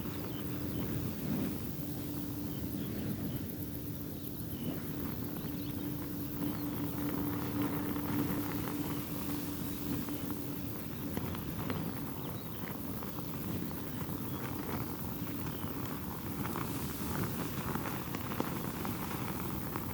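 Thin silk veil flapping and fluttering rapidly in strong, gusty wind, over a heavy rumble of wind on the microphone. A steady low hum runs through about the first half.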